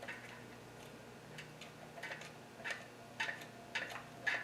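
Ratchet wrench clicking in short, uneven strokes, about ten light clicks, while backing out long upper oil pan bolts.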